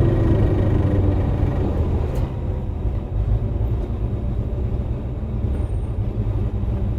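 Low, steady rumble of a motor vehicle's engine, easing a little in level after about two seconds.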